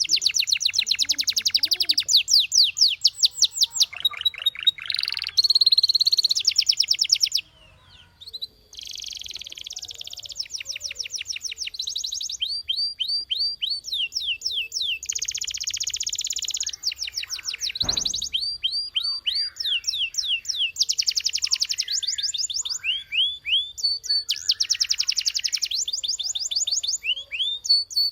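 Domestic canary singing, in fast trills of rapidly repeated high notes, one run after another, with a brief pause about a quarter of the way in.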